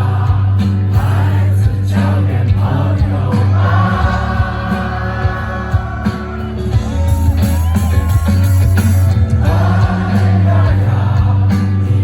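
Live rock band playing, with sung vocals held over a heavy, steady bass.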